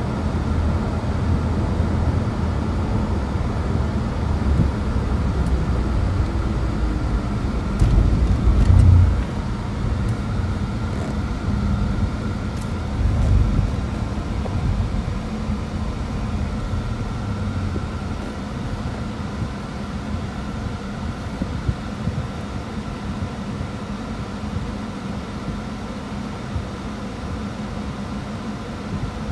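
Car on the move: a steady low road and engine rumble, with two louder low bumps, about 8 and 13 seconds in.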